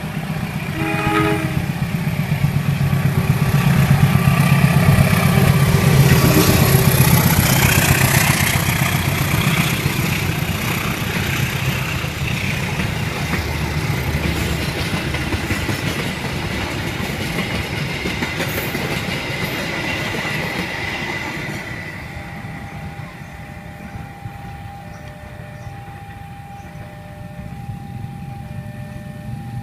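Diesel-hauled passenger train passing close by at speed. The locomotive sounds its horn about a second in, then its engine and the coaches' wheels rumble and clatter past over the rail joints, loudest around five seconds in and fading after about twenty seconds. In the last part a steady tone with a repeating beep is heard, typical of the level crossing's warning signal.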